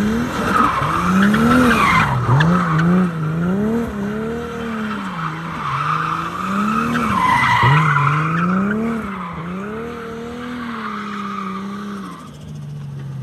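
A car drifting: its engine revs rise and fall over and over while the tyres squeal and skid. Near the end the engine settles to a steady lower note.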